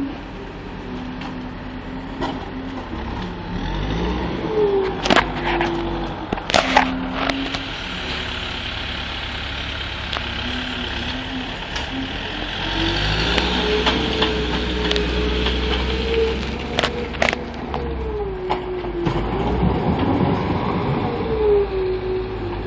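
Case 430 skid steer's diesel engine running under load, its pitch rising and falling as it is throttled up and down while loading muck, with a few sharp clanks along the way.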